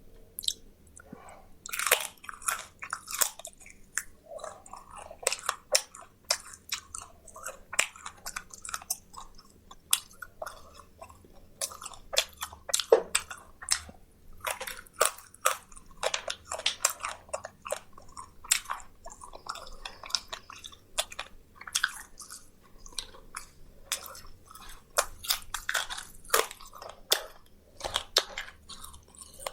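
A person biting and chewing crispy fried food close to the microphone: wet chewing broken by many irregular crunches.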